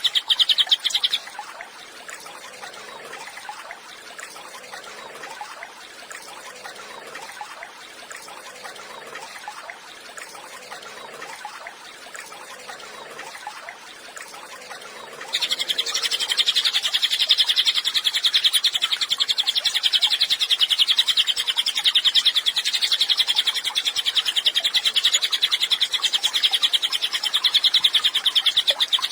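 Cililin bird singing a loud, high, very rapid trill that breaks off about a second in, followed by softer scattered twittering, then the fast trill resumes about halfway through and keeps going.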